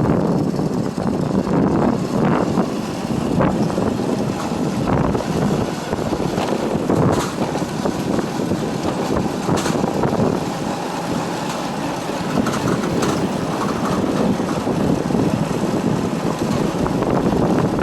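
Motorbike riding along at a steady speed: engine and road noise with wind on the microphone, even and unbroken.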